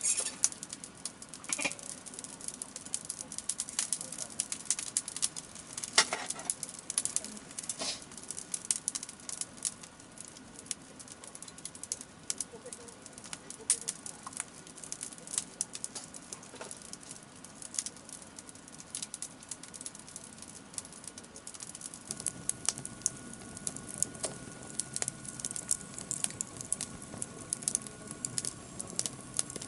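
Wood fire crackling and popping, with irregular sharp pops throughout.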